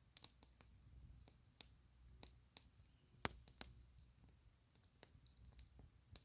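Campfire crackling: wood popping and snapping in irregular, sharp clicks over a low steady rumble, with one louder pop about three seconds in.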